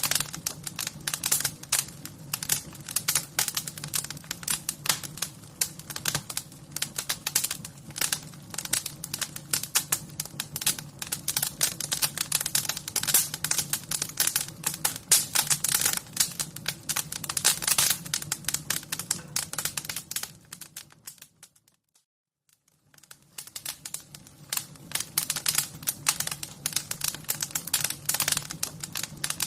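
Wood fire crackling: dense, rapid snaps and pops over a steady low hum. About two-thirds of the way through it fades down to near silence for a second or so, then fades back up.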